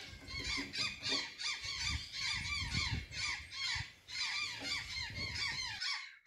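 Azure jay giving a rapid run of harsh, squawking calls, several notes a second, with a short break about four seconds in. A low rumble sits beneath the calls.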